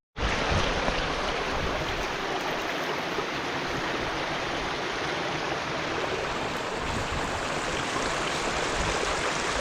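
Brook water rushing steadily, an even, loud rush that starts and stops abruptly.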